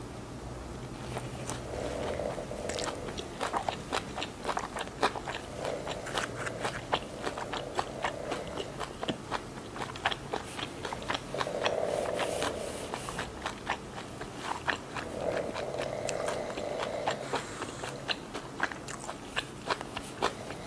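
Close-miked biting and chewing of a Vietnamese fresh spring roll, soft rice-paper wrapper with lettuce and shrimp: a steady run of wet mouth clicks and crisp lettuce crunches.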